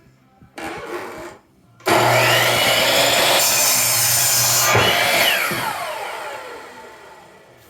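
Electric power saw starting up and cutting wood for about three seconds, then its motor winding down with a falling whine as it coasts to a stop.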